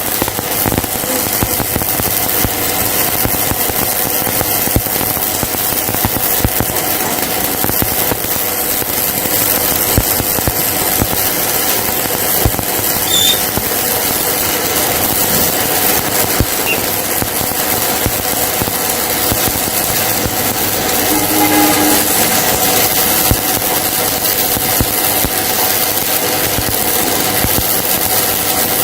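Steady, loud hiss of a power tool working on metal, with many sharp crackles through it and a faint steady hum.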